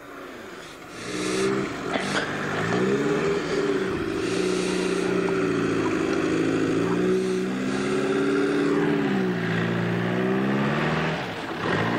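Converted Daihatsu F10 off-roader's engine working at low speed through a muddy trial section, the revs swelling and dropping several times as it climbs over the mounds.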